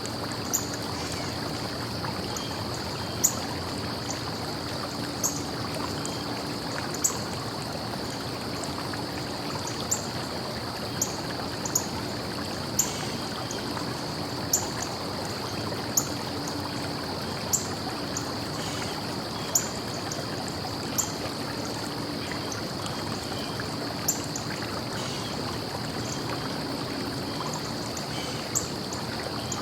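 A small stream running steadily, with a constant high-pitched hiss or hum above it and short, sharp high ticks coming irregularly about every one to two seconds.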